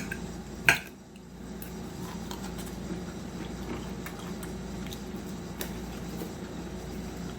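Eating utensils clinking on a plate or food container: one sharp clink a little under a second in, then faint small clicks and scrapes over a steady low hum.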